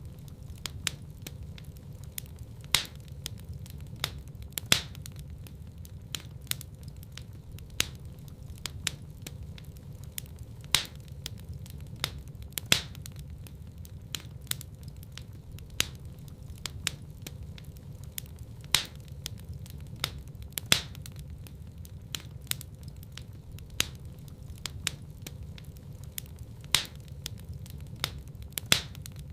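Wood fire burning in a fireplace: a steady low rumble of flames with sharp, irregular crackles and pops from the burning logs, about one a second, some much louder than others.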